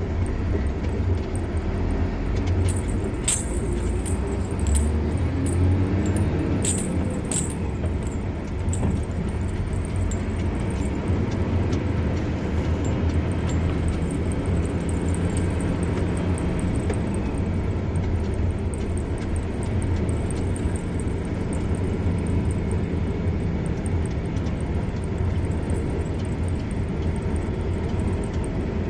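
A car driving on a road: a steady low rumble of engine and tyres. A few sharp clicks or rattles come between about three and eight seconds in.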